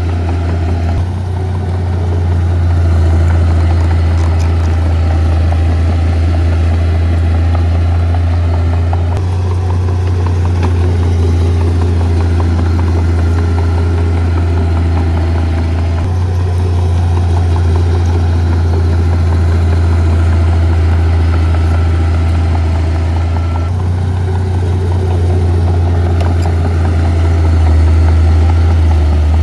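Heavy diesel earth-moving equipment engine running steadily with a strong low hum, shifting abruptly in tone a few times.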